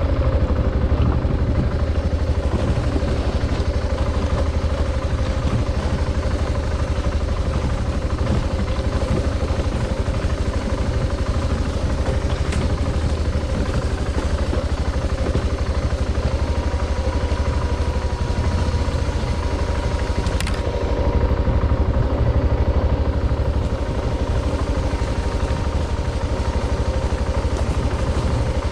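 Adventure motorcycle engine running steadily under way, with a strong low rumble. There is a sharp tick about twelve seconds in and another about twenty seconds in.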